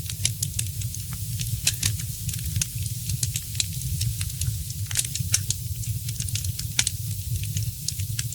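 Fireplace fire crackling: many sharp, irregular pops and snaps over a steady low rumble of the flames, with one louder pop about five seconds in.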